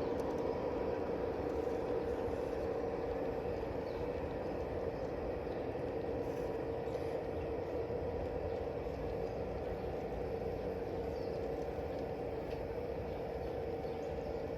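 A train running: a steady hum with an even whine, easing slightly in level over the first few seconds.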